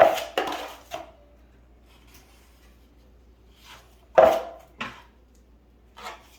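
A metal drywall knife working joint compound, short scrapes and clacks of metal on compound and mud pan. There are three strokes at the start, two about four seconds in and one near the end.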